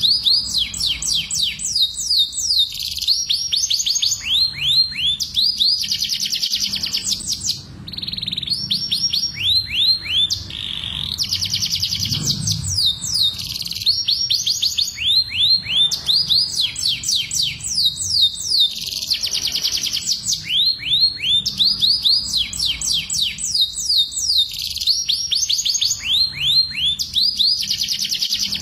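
Domestic canaries singing a continuous song of fast trills, each phrase a rapid run of repeated falling notes, with brief pauses twice, over a low background hum.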